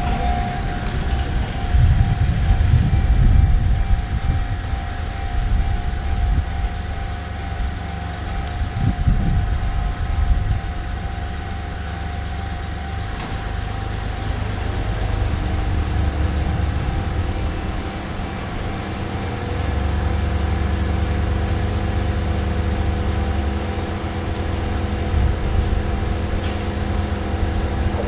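Car engine running: a low rumble that swells and eases, with a steady hum of tones above it.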